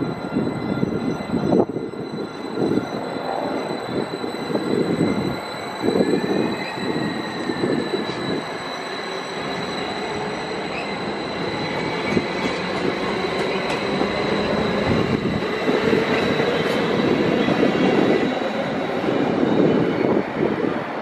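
Caltrain passenger train rolling past: continuous rail rumble with irregular wheel knocks, and a thin steady high whine over the top.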